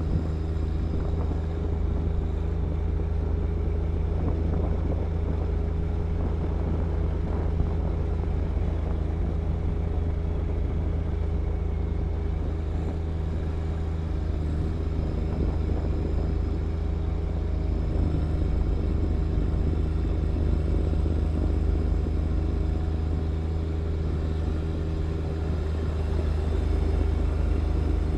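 John Deere 1025R compact tractor's three-cylinder diesel engine running steadily at constant speed, driving a snow blower.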